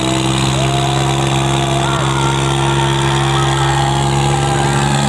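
Tractor diesel engines running steadily under heavy load, straining against each other in a tractor tug-of-war.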